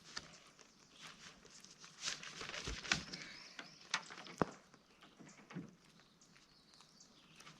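Rustling with scattered sharp clicks and knocks from a truck tent being handled and adjusted, the busiest stretch about two to four and a half seconds in.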